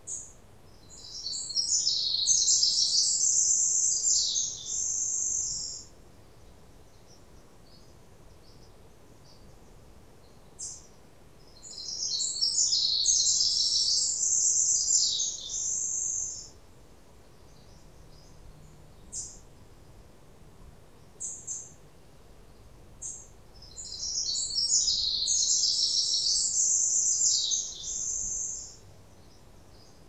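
A songbird singing three long, jumbled, high-pitched songs about eleven seconds apart, each lasting four to five seconds, with a few short single chirps between them over a faint background hiss.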